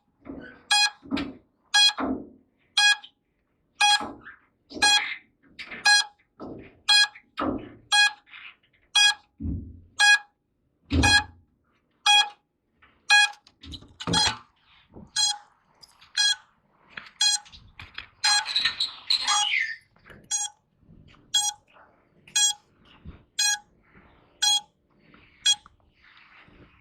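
Small piezo buzzer beeping over and over at an even pace, a short high beep roughly every three-quarters of a second, with soft knocks and rustling of handling underneath.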